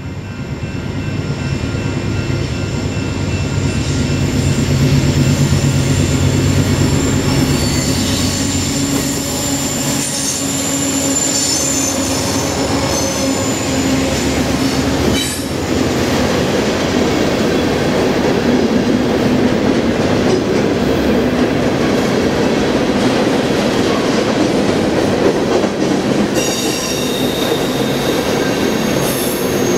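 Freight train passing close by. Its diesel locomotives rumble past for roughly the first half, then the freight cars roll by with steady wheel-on-rail noise and high-pitched wheel squeal, which is strongest near the end.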